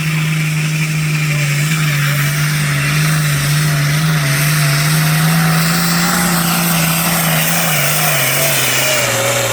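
Tractor engine running hard at a steady high pitch under load while pulling at a tractor pull, its pitch sagging near the end as it throttles down.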